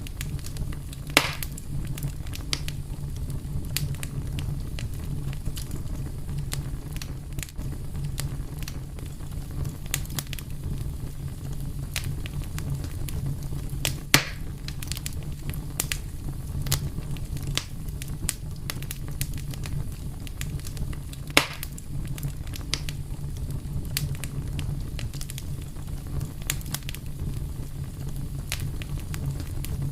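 Wood fire burning with a steady low rumble and frequent sharp crackles, with three louder pops about a second in, near the middle and about two-thirds through.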